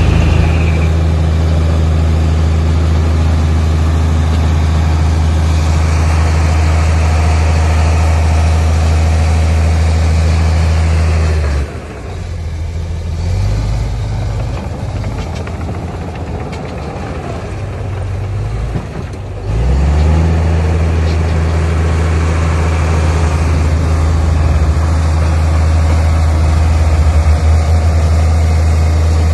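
Heavy diesel engine of earthmoving machinery running with a steady deep drone. It drops away suddenly about twelve seconds in, leaving quieter, uneven engine noise, and the drone comes back just as abruptly about eight seconds later.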